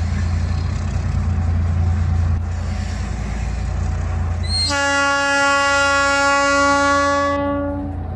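ALCo RSD16 diesel locomotives rumbling steadily as the train passes, then a locomotive air horn sounds one long, steady blast of about three seconds, starting a little past halfway through.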